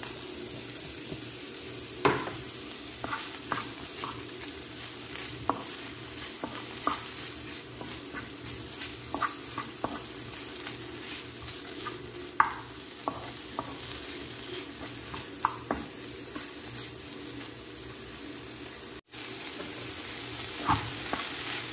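Shrimp, mixed vegetables and diced sausage sizzling in a hot pan while being stir-fried, with a steady hiss and frequent short scrapes and taps of the spatula against the pan. The sound cuts out for an instant near the end.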